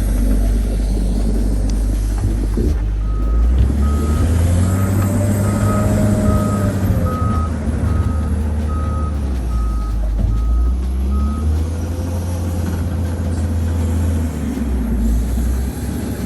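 Bulldozer's diesel engine running with a steady low rumble, revving up and back down twice. Its reversing alarm beeps about twice a second from a few seconds in until about two-thirds of the way through.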